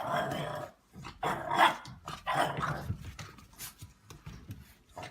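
A dog barking: three longer, loud barks in the first three seconds, then shorter, quieter sounds.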